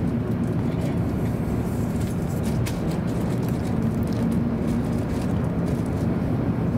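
Cabin noise of a Hokuriku Shinkansen train pulling out of the station: a steady low rumble of the running gear, with a few faint clicks.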